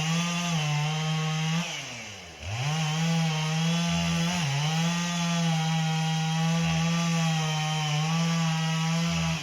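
Two-stroke chainsaw running at high revs; about two seconds in, its pitch dips sharply and climbs back, then holds steady.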